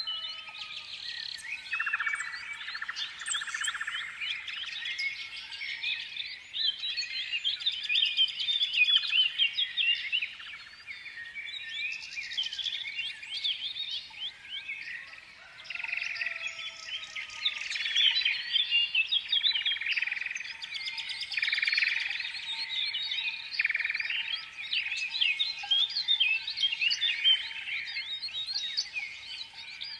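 Many small songbirds chirping and twittering together in a dense, continuous chorus of short, rapid chirps.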